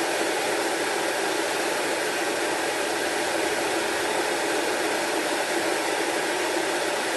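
Salvaged kitchen range hood's exhaust fan running steadily, a constant rush of moving air.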